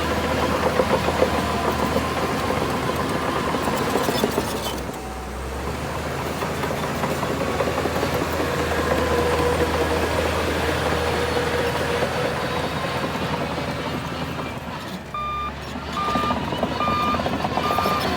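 The diesel engine of heavy earthmoving machinery runs steadily, its load easing briefly around five seconds in. A reversing alarm starts beeping about fifteen seconds in and keeps up an even beep of about one a second.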